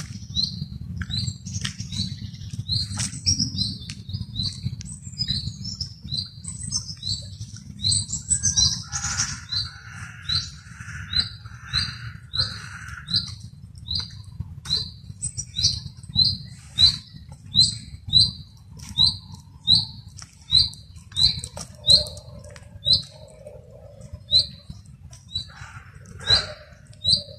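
A bird chirping one short note over and over, about two a second, louder in the second half, with other birds calling briefly and a low rumble underneath.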